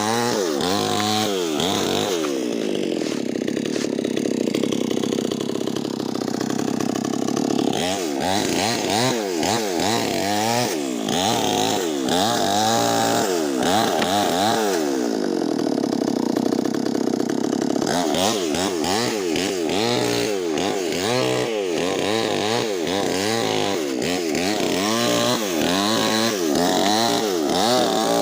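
Two-stroke engine of a Nixon chainsaw with a 25-inch bar ripping lengthwise through a Medang log, its pitch repeatedly dropping under load and climbing back, with two spells of several seconds at steadier high revs.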